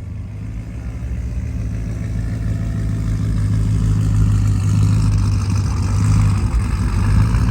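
A truck engine running with a deep, steady drone that grows steadily louder.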